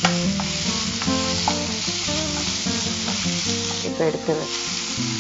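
Cauliflower florets, onion and dried red chillies sizzling in hot oil in a nonstick pan while being stirred with a wooden spatula, with a couple of knocks of the spatula against the pan.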